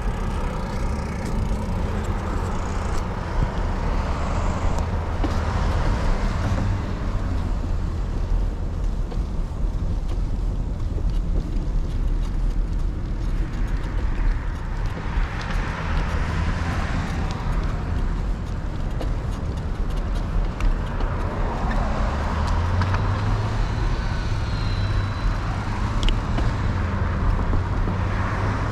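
Steady road traffic noise along the route, with cars passing by; it swells about halfway through and again near the end.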